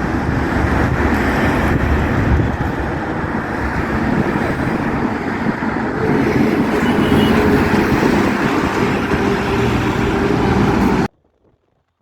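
Road traffic noise: a loud, steady rumble of engines and tyres, with a steady droning tone joining about halfway through. It cuts off abruptly about a second before the end.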